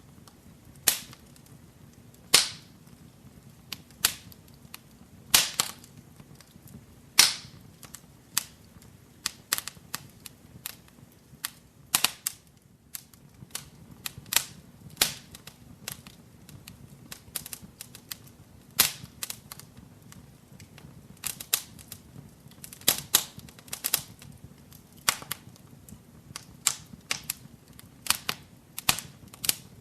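Wood fire in a fireplace crackling, with irregular sharp pops and snaps, several a second at times, over a faint steady low hum of the flames.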